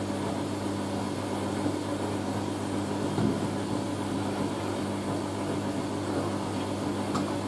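Hoover A3060 Electronic 1100 washing machine running mid-cycle with a steady low hum and a soft knock about three seconds in.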